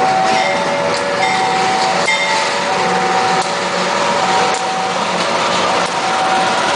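Railway level-crossing warning alarm sounding two alternating tones over and over, with the steady noise of a train running past.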